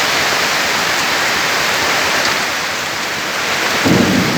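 Strong storm wind blowing hard, a loud steady rushing noise, with a low rumble of a gust about four seconds in.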